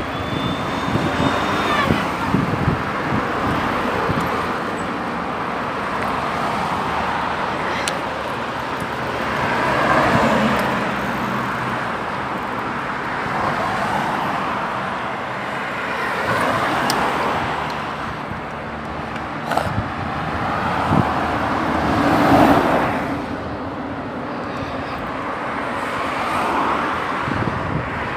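Street traffic: a steady hum of cars, with two vehicles passing close, one about ten seconds in and a louder one a little past twenty seconds.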